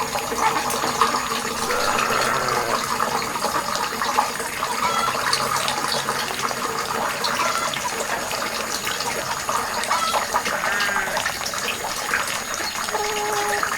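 Water running and pouring steadily into a small pond, with short bubbling gurgles through it.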